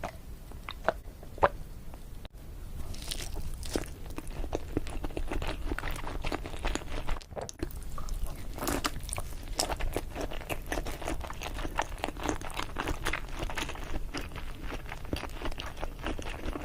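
A person chewing sushi close to the microphone: a dense, irregular run of wet mouth clicks and small crunches, with a brief lull a little past the middle.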